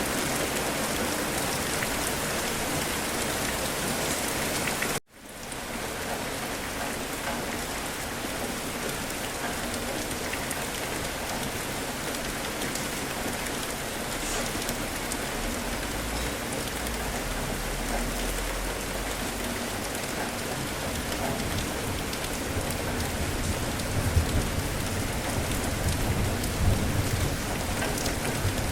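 Steady heavy rain hitting surfaces. It cuts out abruptly for a moment about five seconds in, then resumes. Low rumbles of thunder come in the second half.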